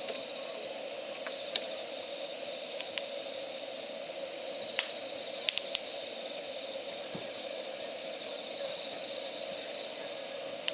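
Wood campfire burning in a fire stand, giving a few sharp crackles and snaps (about three seconds in and a cluster around five to six seconds in) over a steady high hiss.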